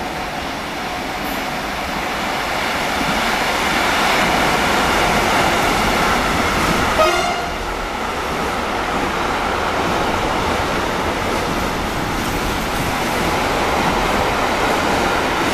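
Long freight train of tank wagons passing, a steady rumble and rattle of wheels on rail, with a brief high tone about halfway through.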